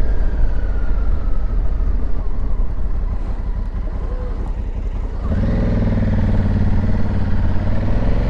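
Honda Africa Twin's parallel-twin engine heard over wind noise while riding, running light at first; about five seconds in the throttle opens, the engine gets louder and its note rises steadily as the bike accelerates.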